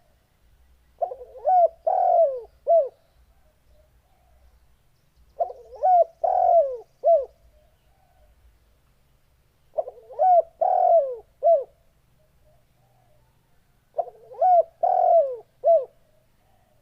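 Spotted dove (tekukur) cooing: four calls, each a quick group of a few coo notes, repeating about every four seconds.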